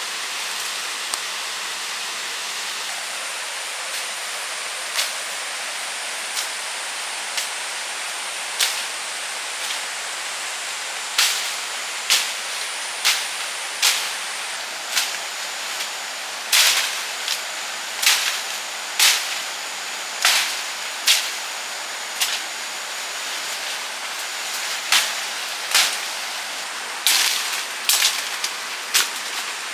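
A steady rushing hiss with irregular sharp cracks or snaps on top. The cracks are sparse at first and come more often, about one a second, through the second half.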